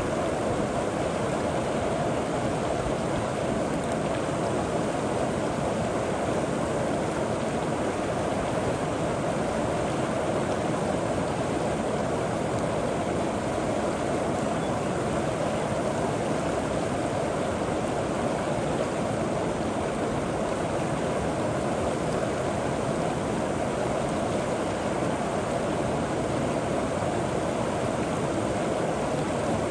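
River water flowing in a steady, continuous rush, without pauses or separate splashes.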